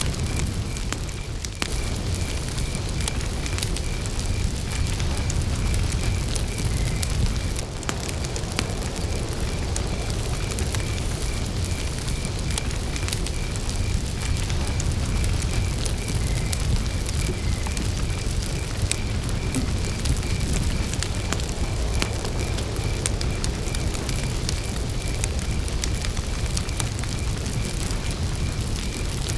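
Campfire burning, with scattered sharp crackles and pops from the wood over a steady low rumble. Crickets chirp throughout in a fast, even pulsing trill.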